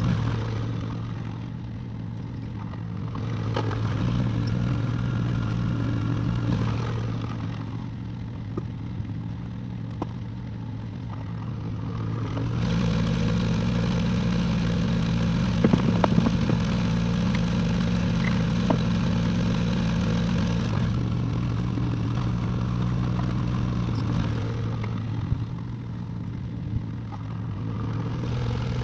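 Excavator engine running steadily, swelling under load twice and easing back in between, with a few metallic clanks and scrapes from the work.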